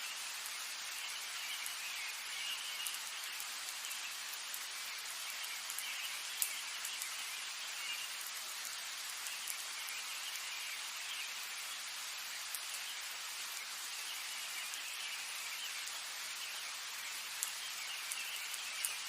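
Steady rain falling, with a few sharper drops striking close by.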